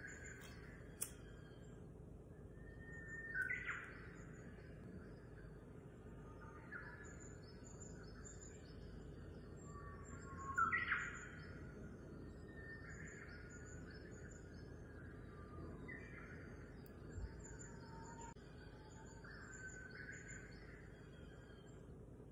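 Birds calling faintly: short squawk-like calls, several sweeping upward, every few seconds over a steady high chirping.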